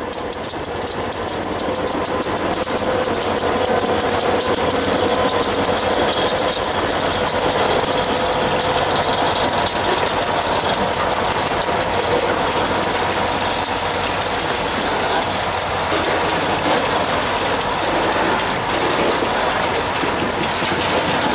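A freight train passing close by: the EMD GP40 diesel locomotive and a second diesel unit run past first, then covered hopper cars roll by, their steel wheels clicking over the rail joints. The sound stays steady and loud throughout.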